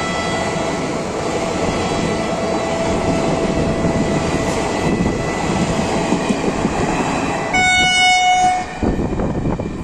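Passenger train coaches running past at speed, wheels steadily clattering on the track. About seven and a half seconds in, a train horn blows loudly for about a second.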